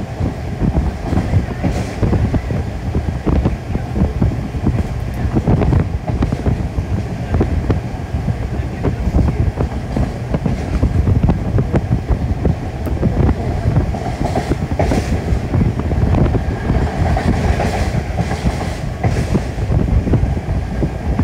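Passenger train carriage running at speed on the rails: a steady low rumble of wheels on track with frequent short clicks and knocks from the rail joints.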